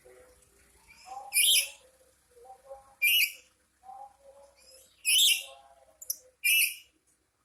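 Black-capped lory giving four loud, harsh screeches about a second and a half apart, with quieter lower calls between them. The owner takes the screeching for the bird being angry.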